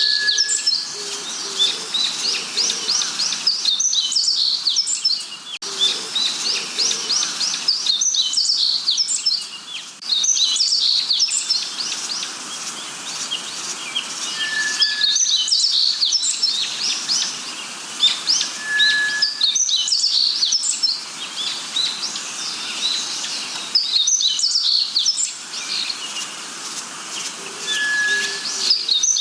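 A chorus of birds singing: rapid, high chirping phrases recur every few seconds, a short clear whistled note sounds four times, and a few low, short notes come in the first several seconds.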